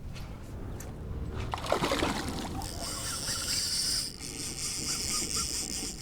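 A fishing reel whirring steadily from about two and a half seconds in, with a short break near four seconds, while a hooked fish is fought. There is a brief splashy rustle of water about two seconds in.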